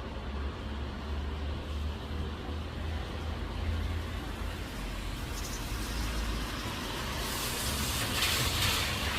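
A steady low rumble under an even hiss of rain. About seven seconds in, a louder hiss swells and fades: a vehicle passing on a wet road.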